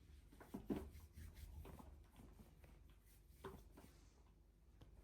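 Near silence with a few faint short knocks, the loudest just under a second in and another about three and a half seconds in.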